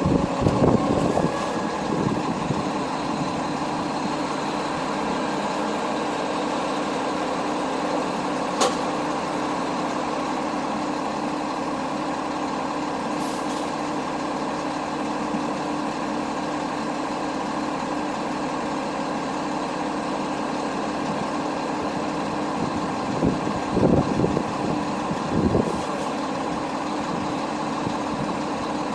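Tow truck's diesel engine running steadily, with a single sharp click about eight seconds in and a few knocks near the end.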